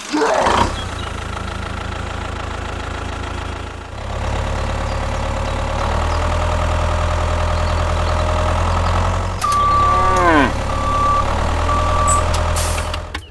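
A steady, low engine-like hum, the running sound of a miniature tractor, gets louder twice. About ten seconds in, a long call falls in pitch, and three short high beeps sound.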